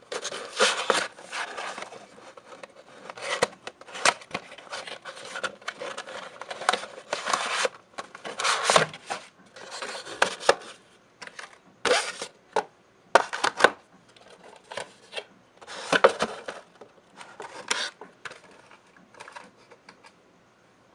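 A die-cast model airplane's cardboard box and packaging being opened by hand: irregular scraping, rubbing and rustling, with a few sharp knocks, growing sparser near the end.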